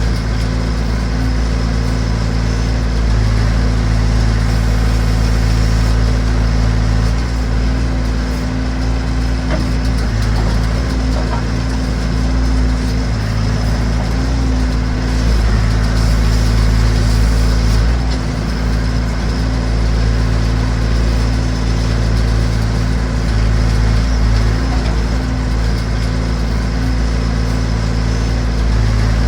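Massey Ferguson BX 50 backhoe's engine running steadily, with only small dips and rises in pitch.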